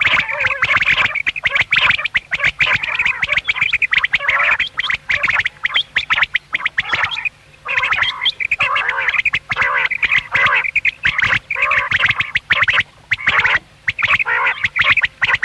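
Common quail calling: a rapid, unbroken run of short chattering calls, with a brief pause about halfway through.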